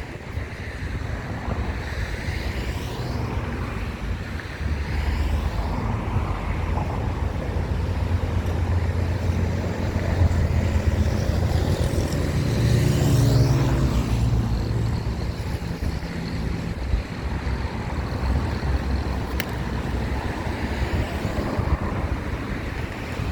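Road traffic passing on a busy avenue, vehicle engines and tyres coming and going. The sound swells to its loudest a little past halfway as a vehicle goes by close.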